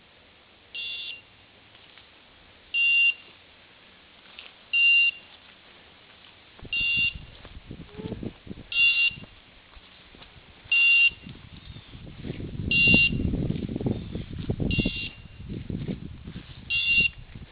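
Hunting dog's beeper collar giving a short high beep about every two seconds, nine times, the steady beep such collars give while the dog stands on point. From about seven seconds in, rustling and footsteps through brush, loudest in the middle.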